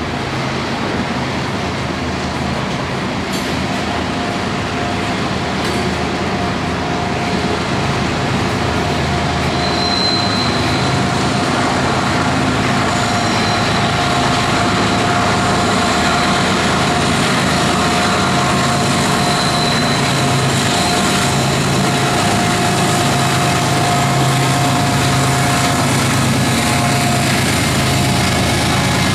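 Loaded coal hopper cars of a freight train rolling steadily past on the rails, with a thin whine from the wheels coming and going. The low hum of the rear distributed-power diesel locomotive grows slowly louder as it approaches.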